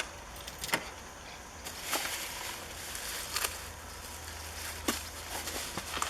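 A handful of separate light clicks and knocks, a second or so apart, over a low steady hum, as of small parts being handled during repair work.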